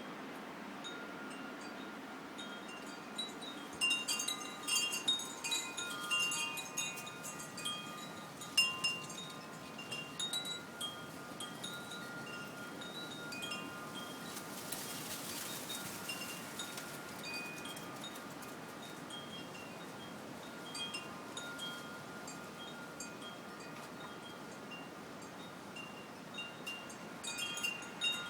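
Porch wind chimes stirred by the wind, ringing in irregular clusters of strikes with tones that hang on. They are busiest in the first half, go calmer, then pick up again near the end.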